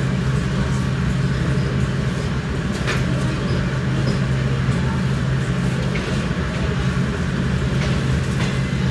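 Steady low rumble and hum of a diesel-hauled San Martin line commuter train, heard from inside a passenger coach, with a few sharp clicks and knocks now and then.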